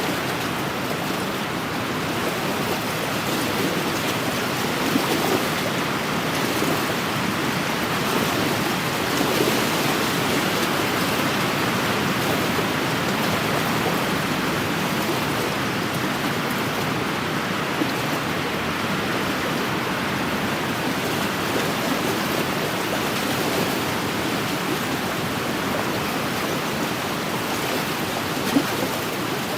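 Wind-driven waves washing steadily against a lakeshore, a continuous even wash of water.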